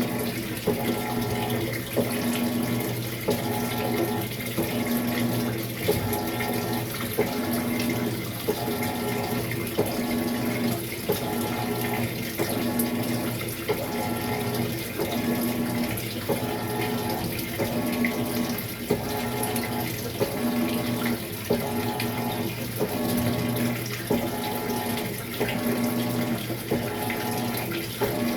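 Maytag MVWX655DW1 washing machine running its tub clean cycle: water swishing in the tub over a motor hum that comes in even strokes about once a second.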